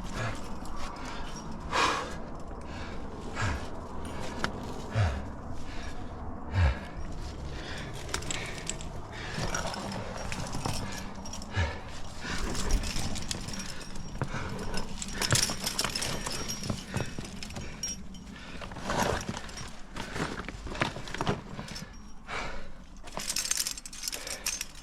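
Climbing gear clinking and clattering, with irregular knocks and scrapes, as a climber squeezes up a tight rock chimney.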